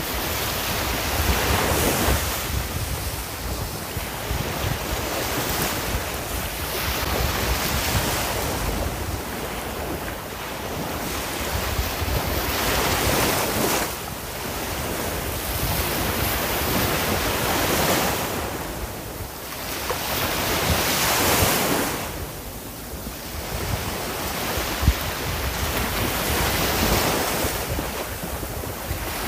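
Ocean waves breaking on a shore: continuous surf that swells and falls back every few seconds.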